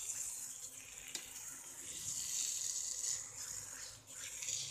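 Mashed eggplant curry sizzling as it fries in oil in a non-stick pan, with a metal spatula scraping and mashing it: a steady frying hiss with a few scraping strokes.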